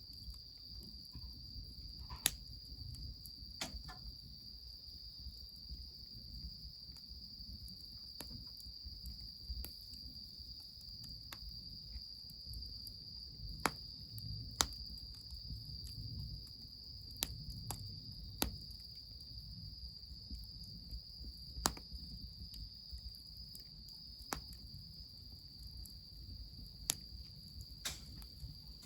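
Crickets chirring in one steady high-pitched trill, with sharp pops from a burning wood fire every few seconds over a low rumble.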